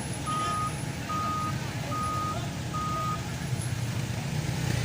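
Truck's reversing alarm beeping four times at an even pace, over the low rumble of its engine running.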